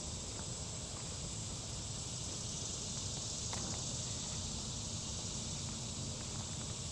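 Steady high-pitched chorus of insects such as crickets, over a low background rumble.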